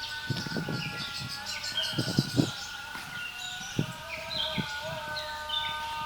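Small songbirds chirping and twittering over a steady, several-toned hum, with a few soft footfalls on the trail.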